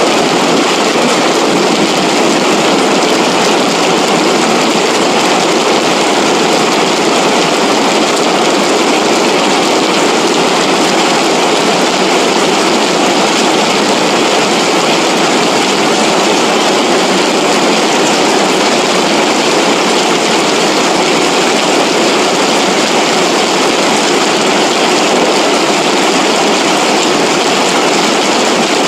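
Floodwater rushing down a valley after heavy rain, a loud, steady noise without a break.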